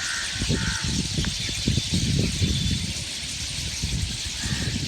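Outdoor morning birdsong, with a harsh call at the start and another near the end, under an irregular low rumble on the microphone.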